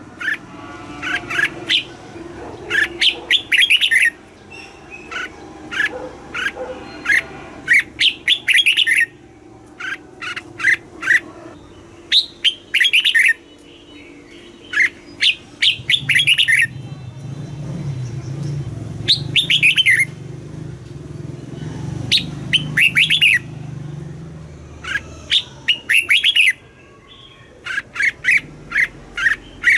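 Red-whiskered bulbul singing: short phrases of quick, clear whistled notes, repeated every second or two with brief pauses between them.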